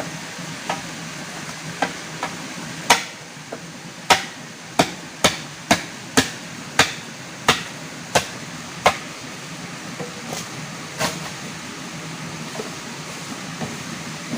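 A run of sharp hammering or chopping blows: one strike about three seconds in, then nine more roughly every two-thirds of a second, and two fainter ones near the end. They sound over a steady rushing noise.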